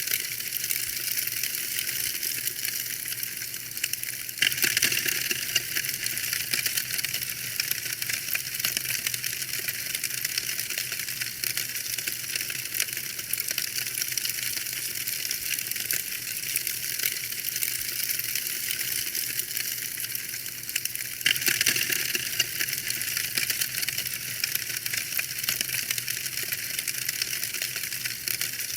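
Wood fire crackling: a steady hiss full of dense small pops and snaps. The sound steps up suddenly and gets brighter about four seconds in and again about twenty-one seconds in.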